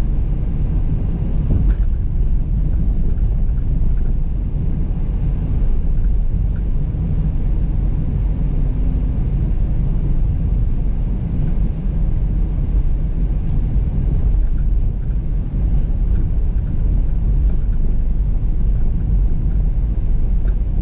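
Steady low rumble of a car heard from on board, with faint small clicks and rattles over it.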